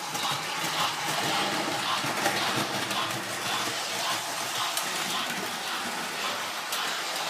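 Electric model train running steadily along its track.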